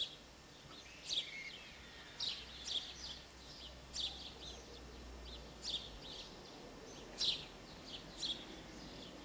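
Small birds chirping outdoors, short high calls every second or so. A faint low hum underneath fades out about six seconds in.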